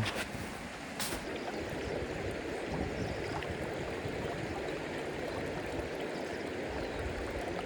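River water running steadily, with a single brief click about a second in.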